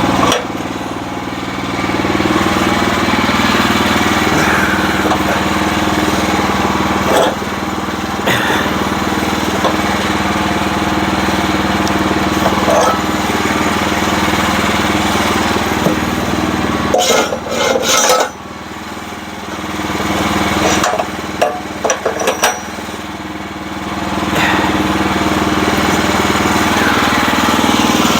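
Sawmill engine running steadily under load. About two-thirds of the way through, the engine note drops for a few seconds, with a handful of sharp knocks and clatter, and then it comes back up.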